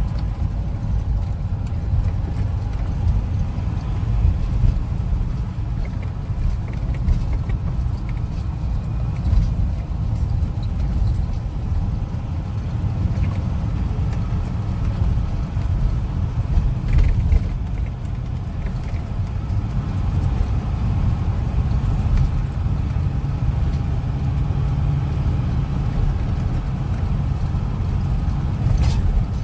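Land Rover Defender driving on a country road, heard from inside the cabin: a steady, low engine and road rumble.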